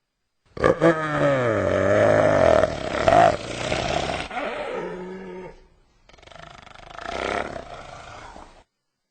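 Spotted hyena calling: a long, loud call with a falling, wavering pitch that lasts about five seconds, then after a brief break a second, quieter call that stops short of the end.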